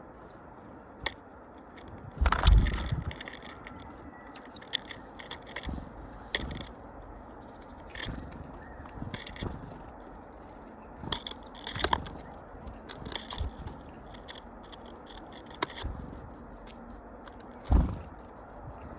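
Irregular taps, scrapes and crackles of birds pecking at feed at a feeder, with a louder knock about two and a half seconds in and another near the end.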